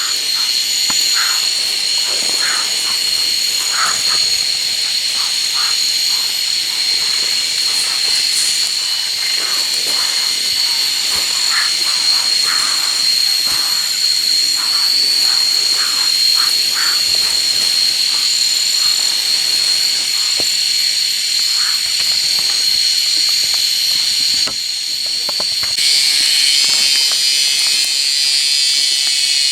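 Forest ambience: a steady high-pitched insect drone with many short frog calls scattered through it. About 26 seconds in, the drone turns louder and rougher.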